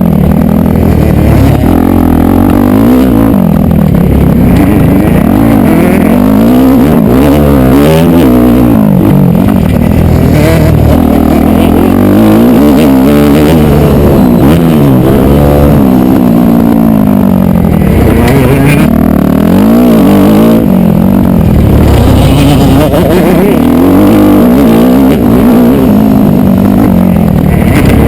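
Motocross dirt bike engine revving up and dropping back over and over, its pitch climbing and falling every second or two as the rider works the throttle and gears.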